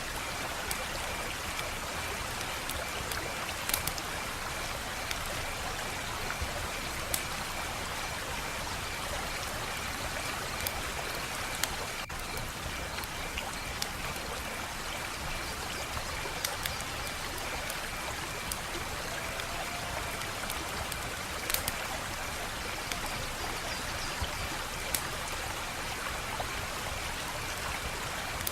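Wood fire crackling, a steady hiss with scattered sharp pops, a few of them louder. A faint, continuous high pulsing trill runs underneath.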